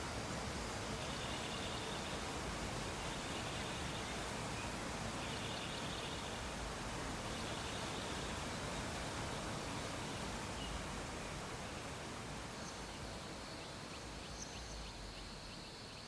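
Steady background hiss, with faint short chirps repeating about once a second, easing a little near the end.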